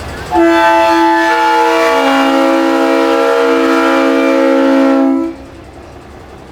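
Multi-chime train-style air horn sounding one long, loud chord of several notes. A lower note joins partway through, and the blast cuts off after about five seconds.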